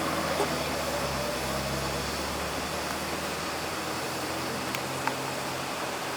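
Old car's engine running steadily with a low hum over a hiss of traffic noise; the hum fades out near the end.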